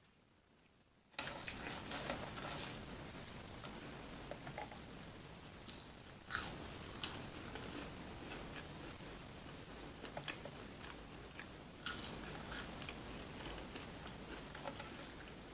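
Close-miked eating of a double-patty cheeseburger meal: chewing with many small wet clicks, starting about a second in, with two louder sharp bites, about five seconds apart.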